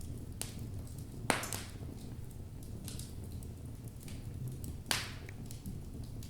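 Wood fire burning in a fireplace: a low steady rumble of flames under sharp crackles and pops from the burning logs, the loudest pop just over a second in and another about five seconds in.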